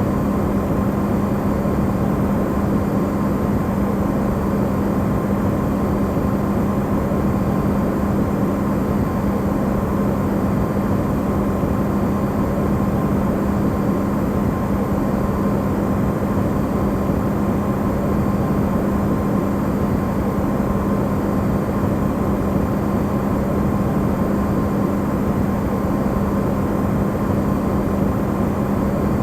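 Amplified refrigerator running: a steady hum with a strong low tone and a rushing noise under it, unchanging throughout.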